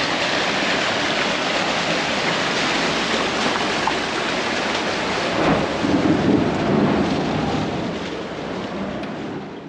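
Loud, steady rushing noise of a passenger boat under way, its engine and the water mixed into one roar, starting and cutting off abruptly.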